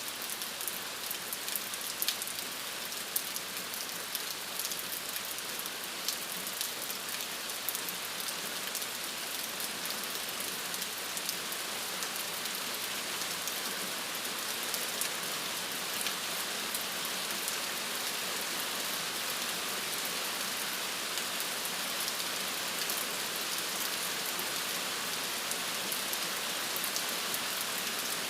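Steady rain falling, with a dense hiss and many small drop ticks on a surface.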